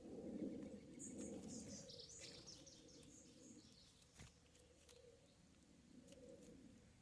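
A faint, quick run of short high chirps stepping down in pitch, like a small bird's descending song, over a low steady background hum, with a single click near the middle.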